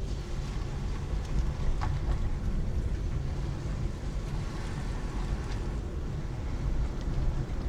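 Steady low road and engine rumble of a car driving, heard from inside the cabin, with a few faint ticks and rattles.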